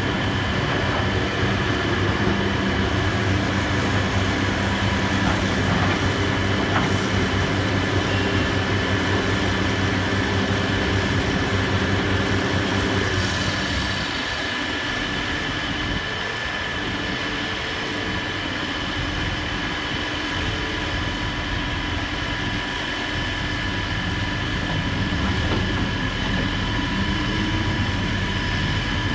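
Heavy diesel demolition machinery running steadily, with a constant high whine over the engine; the engine note changes and eases slightly about 13 seconds in.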